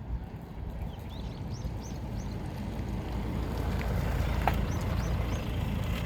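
Small birds chirping in quick series of short high calls, over a low rumble that swells toward the middle and end, with one sharp click about four and a half seconds in.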